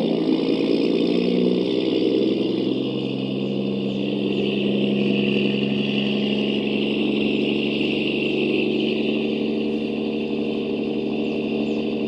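Radio-controlled truck running: a steady engine-like drone with a higher whine above it.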